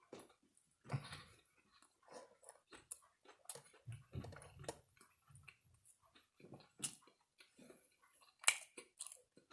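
A person chewing food close to the microphone, with soft, irregular mouth clicks and smacks and a couple of dull low thuds, about a second in and again around four seconds in.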